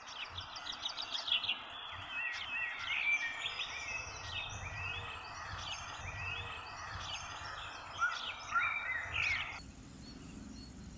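Many small birds chirping and calling over a steady hiss, all cutting off suddenly near the end.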